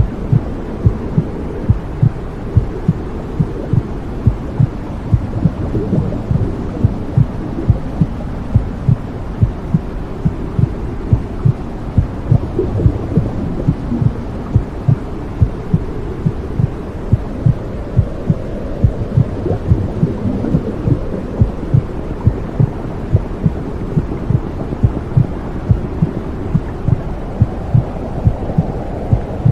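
Womb sound for soothing a baby: a mother's heartbeat heard as steady low thumps, about two a second, over a continuous low whooshing hum.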